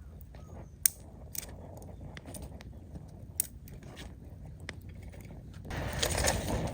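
Campfire of gathered branches burning, with a few sharp crackling pops. A louder rushing noise comes in near the end.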